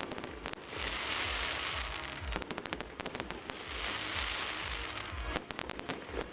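Fireworks bursting in the air: three volleys of rapid sharp crackling, at the start, around two and a half to three and a half seconds, and near the end, over a hissing fizz. Music with a steady bass beat plays underneath.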